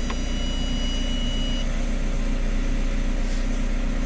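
VW Crafter 2.0 BiTDI twin-turbo four-cylinder diesel idling steadily just after its first start following injector work. It runs evenly with no knock to be heard, the injector-seat gas blow-by fault now cured. A thin, steady high tone sounds over it for the first second and a half.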